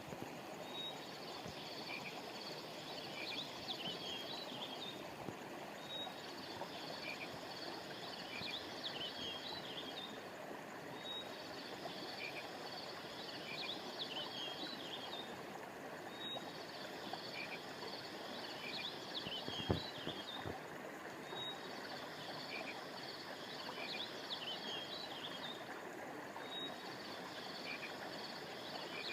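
Steady rush of flowing river water with a high chorus of chirping frogs or insects, the same pattern repeating about every five seconds. One short knock about two-thirds of the way through.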